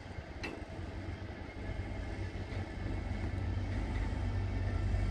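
Intermodal freight train of pocket wagons loaded with road trailers rolling slowly past, a low rumble of wheels on rails growing steadily louder, with a sharp click about half a second in.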